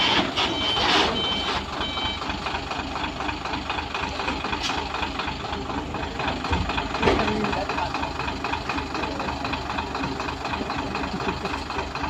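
A truck's reversing alarm beeps a few times at the start, then a heavy diesel truck engine runs with a fast, even clatter. A single sharp thud sounds about seven seconds in.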